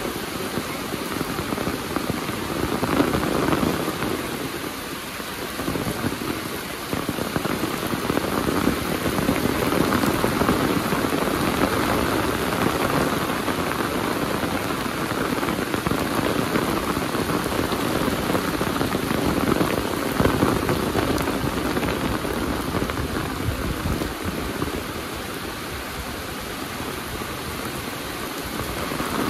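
Heavy rain falling steadily, a dense even hiss of drops striking the ground and other surfaces.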